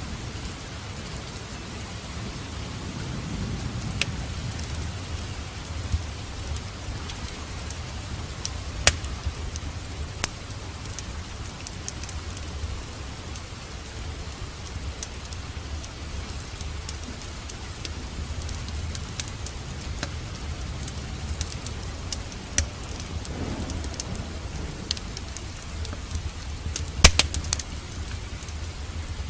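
Steady rain with a low rumble of thunder underneath that swells a few seconds in and again later. Sharp crackles and pops from a wood fire in a fireplace are scattered over the top, with a burst of louder pops near the end.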